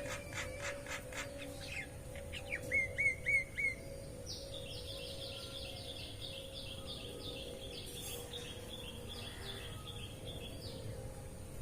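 Birds calling: a few short notes, then four loud hooked calls in quick succession, followed by a long run of rapid, high repeated chips, about four a second, that stops near the end.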